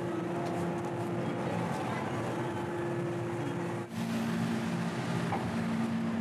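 Steady hum of an electric commuter train standing at the platform with its doors open. The pitch of the hum changes abruptly about four seconds in.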